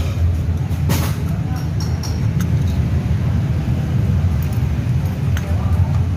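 Steady low mechanical hum, with a sharp click about a second in and a few fainter ticks.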